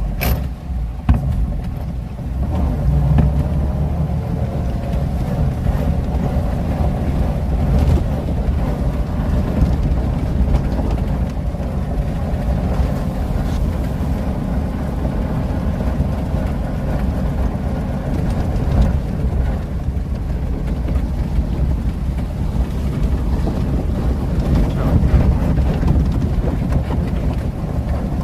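Engine of a 1926 Chrysler Royal Coupe running steadily as the car drives through a stream, a continuous low rumble with a few knocks near the start.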